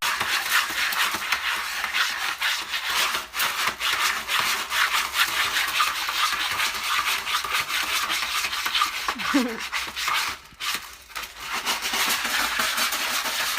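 Continuous rough scratching noise made of many quick scrapes, with a brief rising squeak about nine seconds in.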